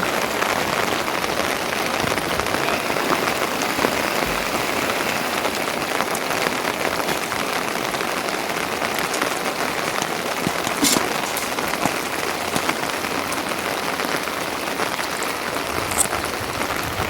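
Steady rain falling, an even patter that holds at one level, with a few sharper ticks late on.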